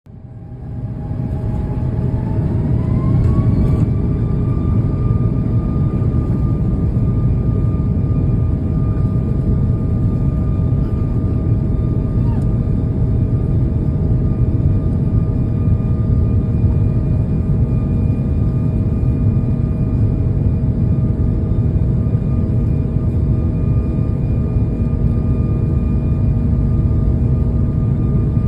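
Airbus A340-600's four Rolls-Royce Trent 500 jet engines spooling up to takeoff thrust: the noise swells over the first two seconds and a whine climbs in pitch, then holds as a steady, loud engine sound with a deep rumble beneath.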